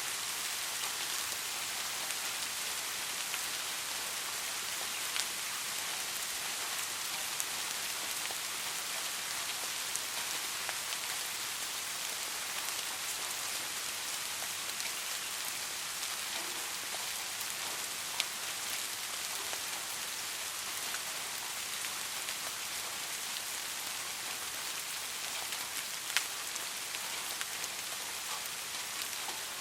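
Steady soft rain falling, an even hiss with occasional distinct drops; single drops land a little louder about five, eighteen and twenty-six seconds in.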